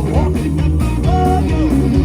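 Live blues-rock band playing: a guitar lead of bending, sliding notes over a steady bass line.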